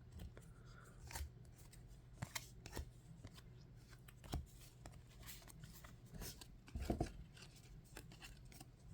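Faint, scattered clicks and rustles of trading cards and their plastic sleeves or cases being handled and set down, the loudest about seven seconds in.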